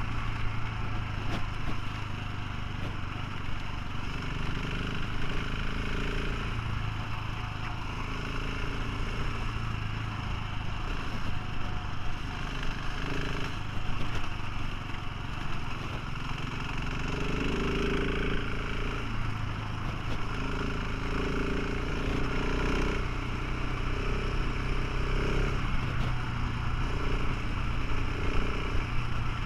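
Motorcycle engine running steadily while riding, its note shifting a little now and then, over a constant low rumble of wind on the microphone.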